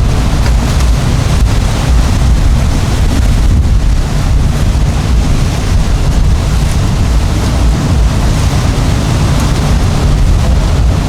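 Wind buffeting the microphone, a loud, irregular low rumble, over the running of boat engines at the ramp.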